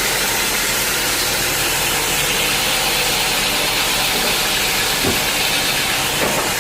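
Sawmill machinery running steadily: an engine with a loud, even hiss over it, and a brief knock about five seconds in.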